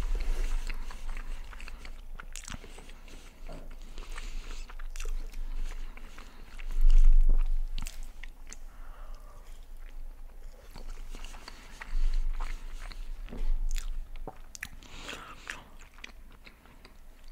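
Close-miked chewing of chicken poutine: wet mouth clicks, smacks and soft crunches of fries and cheese curds. A low thump about seven seconds in is the loudest moment.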